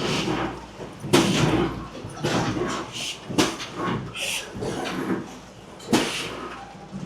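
Potato packing line starting up: irregular knocks and clattering of potatoes and equipment, with heavier thumps about a second in, around three and a half seconds and near six seconds, over a steady low hum. Voices can be heard in the background.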